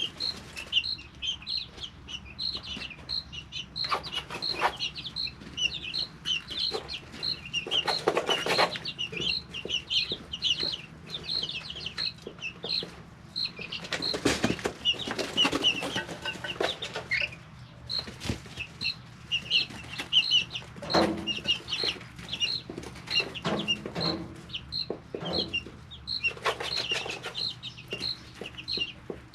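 A brooder of three-week-old chicks peeping constantly: many short, high peeps a second. They are broken by brief bursts of rustling and scuffling, the loudest about 8 and 14 seconds in.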